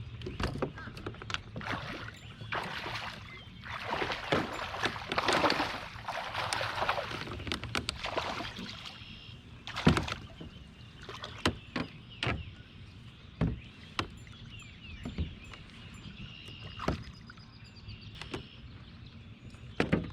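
Water splashing and sloshing around a plastic fishing kayak, loudest in the first half. Sharp knocks on the hull and gear follow at irregular intervals.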